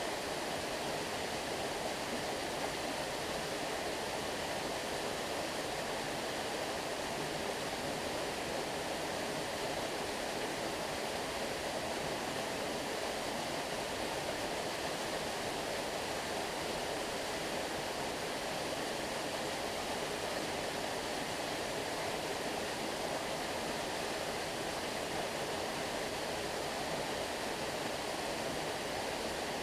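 Stream water flowing and rushing steadily, an even, unbroken sound with no distinct splashes or other events.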